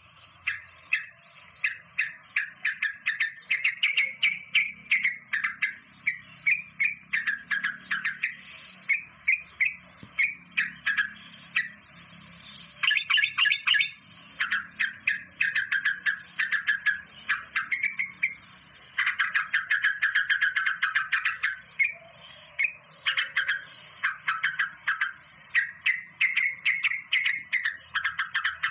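Small birds chirping continuously in quick series of short, high notes, broken by a few faster, denser runs of twittering about halfway through and again later on.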